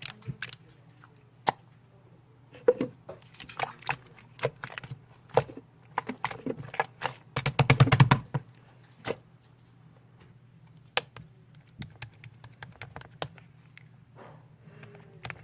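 Slime being pressed, poked and stretched by hand, giving scattered sticky clicks and pops, with a quick run of rapid clicks lasting about a second about halfway through.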